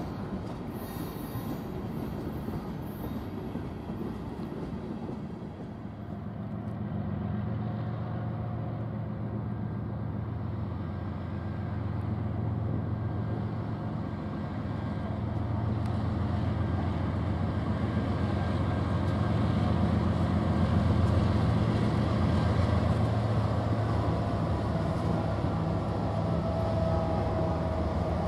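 BNSF freight diesel locomotives passing at the head of a double-stack intermodal train. A steady low engine drone builds up from about six seconds in and grows louder as the locomotives come close, over the running noise of the train.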